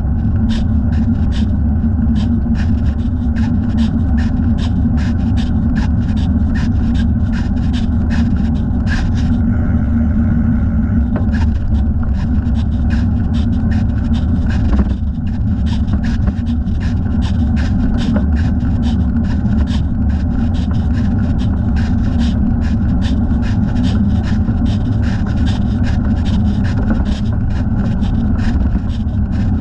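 Bicycle riding noise: a steady low rumble of tyres and wind, with a regular clicking about twice a second.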